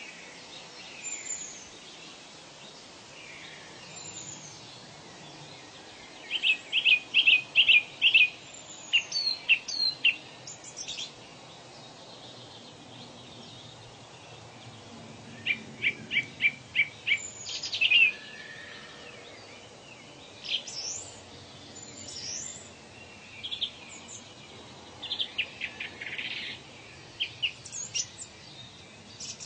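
Wild birds singing: several runs of quick, evenly spaced high notes, about five or six to a run, and short falling whistles, over a steady faint hiss.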